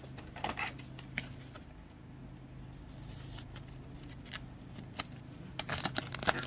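Baseball cards being handled: scattered soft rustles and light clicks of cards sliding against one another, busiest near the end, over a steady low hum.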